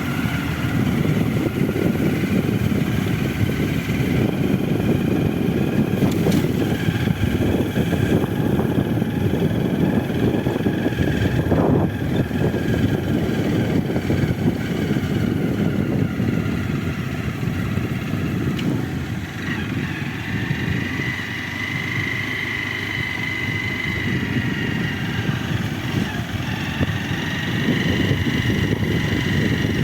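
A running engine with a steady rumble. A faint high whine rises above it about two-thirds of the way through.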